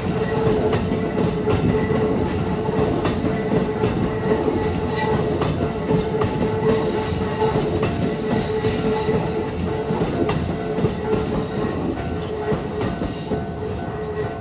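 Keikyu New 1000 series electric train running past at a level crossing, with its wheels rumbling and clattering on the rails and a steady tone held throughout. The sound eases slightly near the end.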